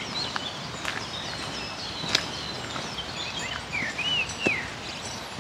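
Songbirds singing: short whistled notes that rise and fall, mixed with quick chirps, busiest about two-thirds of the way in. Underneath runs a steady soft hiss, with a few sharp clicks.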